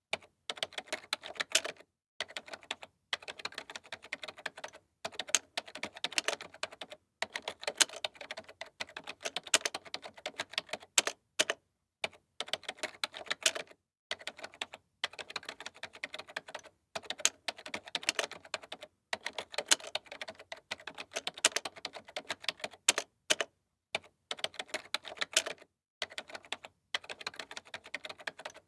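Computer keyboard being typed on: quick runs of keystroke clicks, broken by brief pauses every second or two.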